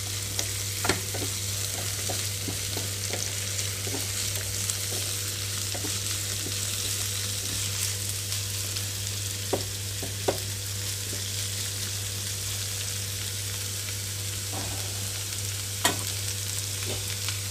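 Sliced ivy gourd sizzling in oil in a pan while being stirred with a wooden spatula: a steady frying hiss, with a few short scrapes and taps of the spatula against the pan. A steady low hum runs underneath.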